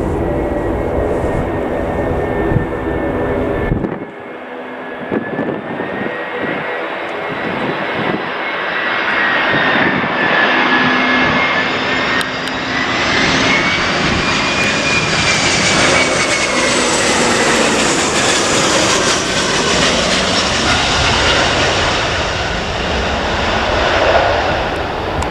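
Jet airliner's engines passing close by: a loud whining roar with a high whine that wavers in pitch, swelling to a peak in the middle and then easing off. About four seconds in, the deep rumble suddenly drops away.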